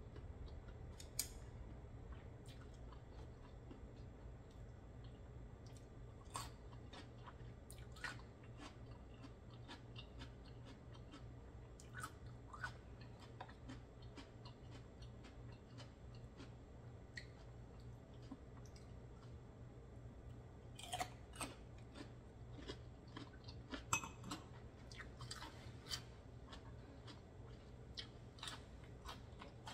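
Faint, close-miked chewing and mouth sounds of someone eating raw oysters, with irregular small clicks and smacks over a low steady hum.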